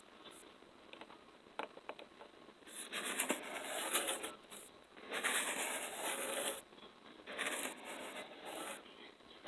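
Close-miked ASMR handling sounds: three stretches of scratchy, crackling rubbing, each one to two seconds long, with faint clicks between them.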